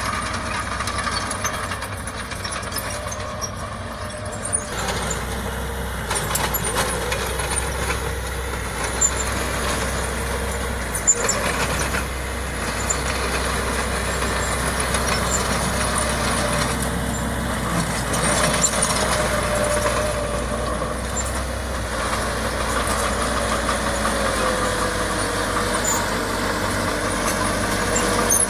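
Heavy diesel earthmoving machinery running steadily under load, with a few sharp metallic knocks and a faint wavering squeal.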